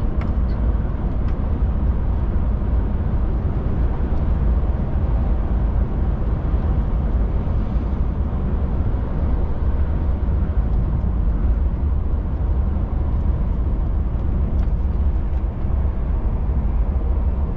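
DAF truck driving at a steady pace: a continuous low engine and road drone with no changes in speed or gear.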